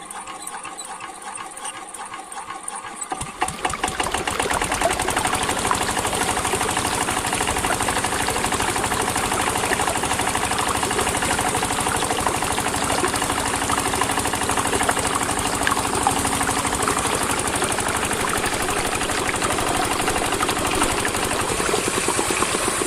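A small motor running fast and steadily, getting fuller and louder about three seconds in.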